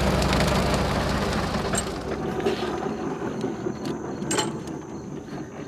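Bush hog rotary cutter spinning down after its drive is cut, its blades and gearbox clattering and rattling as it coasts. The tractor's low drone fades out over the first two seconds, and the clatter grows gradually quieter.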